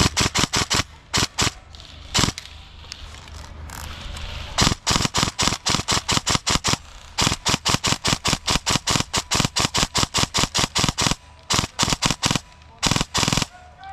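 Airsoft gun firing in quick strings of sharp shots, about six a second at its fastest, with short gaps between the strings.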